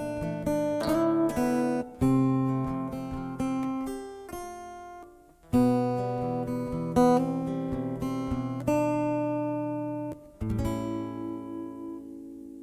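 Acoustic guitar playing an instrumental passage of plucked notes and chords. About ten and a half seconds in, a last chord is struck and left to ring out, fading away.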